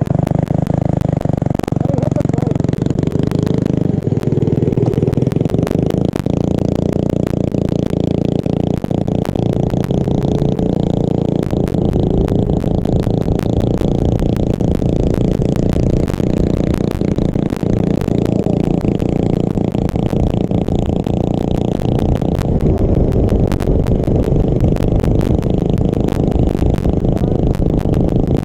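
Small mini bike engine running at a steady, moderate speed while riding, with a constant fast clicking and clatter over it. The pitch rises a little a few seconds in.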